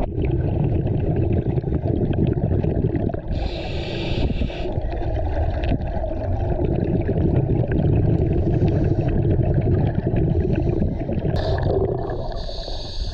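Underwater sound of a scuba diver: a steady low rumble and gurgle of regulator bubbles and water movement, with two short hisses of the regulator, about three seconds in and again near the end.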